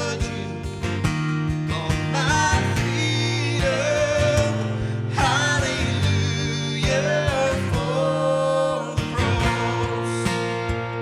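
Worship band playing a praise song: acoustic guitar strumming under a sung melody.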